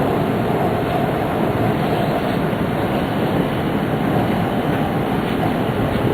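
Steady running noise inside the passenger cabin of a Tohoku Shinkansen Hayate train: an even rumble and rush from the wheels on the track and the air around the carriage.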